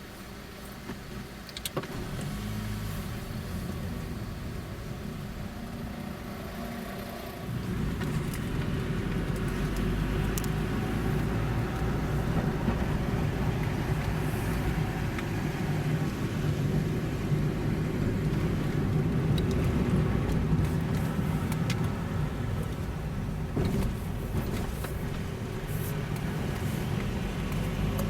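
Car driving along, a steady rumble of engine and road noise that gets louder about seven seconds in as it picks up speed.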